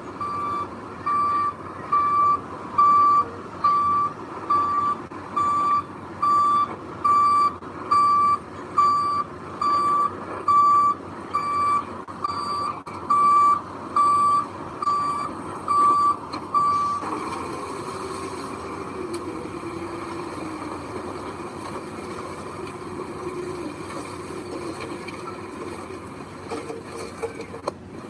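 Reversing alarm on a heavy construction machine beeping steadily, a bit more than once a second, over its running engine. The beeping stops about two-thirds of the way through, and the engine keeps running alone.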